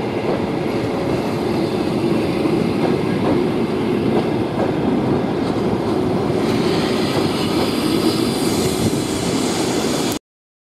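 Passenger train coaches rolling slowly past on arrival at a station, with steady wheel-on-rail rumble and clicking over the rail joints. A higher hiss joins about six and a half seconds in, and the sound cuts off suddenly just before the end.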